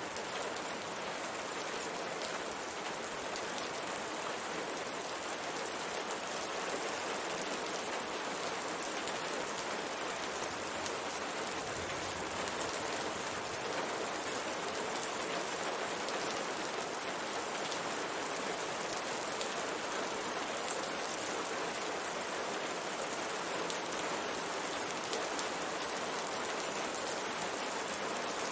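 Steady rain pattering on a window pane, a dense, even hiss of drops with fine ticks of single raindrops striking the glass.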